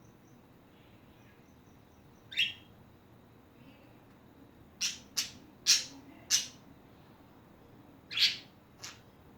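Pet budgerigars giving short, sharp chirps: one about two seconds in, a quick run of four around the middle, and two more near the end.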